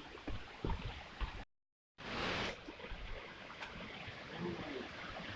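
Footsteps and camera-handling thumps on a bush walking track over a faint steady rushing noise. The sound cuts out completely for about half a second, then a short burst of noise follows.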